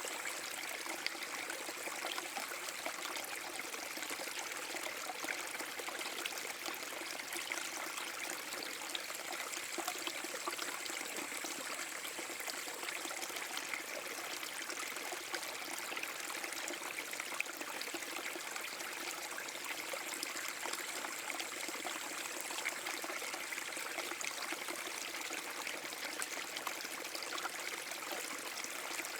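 Small forest brook spilling over a mini waterfall: steady flowing and trickling water.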